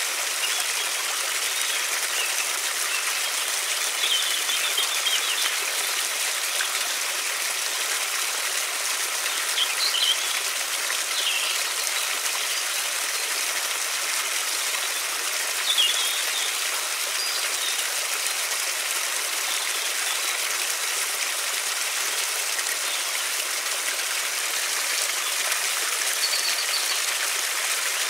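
River water flowing in a steady rush, with a few short bird chirps now and then.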